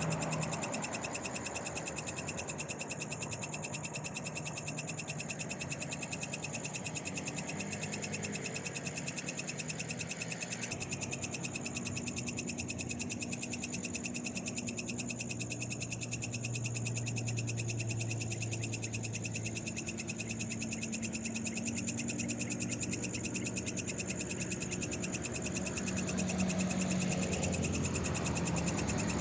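Night chorus of frogs and other small animals: a steady, fast-pulsing trill that never lets up, with a low engine hum from passing vehicles swelling and fading underneath, strongest near the start and again near the end.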